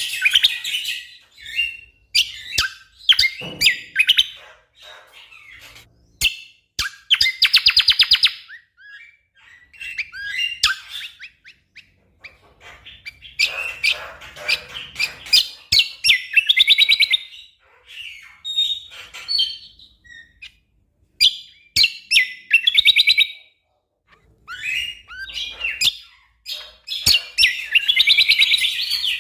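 Cucak kombo (kecial kombok) songbird singing: bursts of rapid, tightly packed trills and sharp chattering notes, broken by short pauses.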